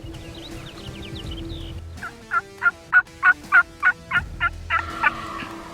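Turkey yelping: a run of short, loud yelps starting about two seconds in, about three notes a second, and still going at the end. Faint high chirps come before it.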